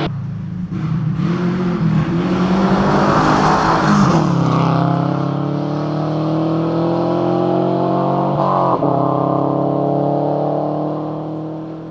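Rally car's flat-four engine at full throttle, its pitch climbing steadily, with a rush of noise about three to four seconds in. A brief break about eight and a half seconds in as it shifts up, then climbing again and fading near the end.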